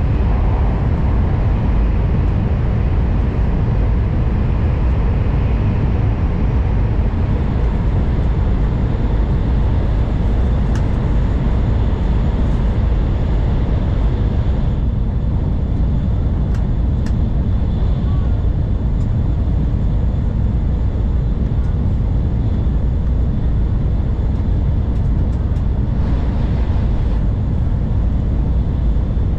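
N700 series Shinkansen at speed, heard from inside the passenger car: a steady, heavy running rumble of wheels on rail and air noise. The higher hiss thins out for about ten seconds around the middle, then returns.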